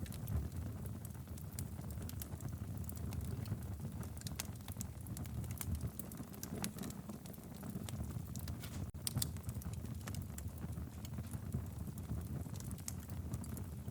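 Wood fire crackling in a fireplace: a steady low rumble of flames with frequent sharp pops and snaps scattered throughout.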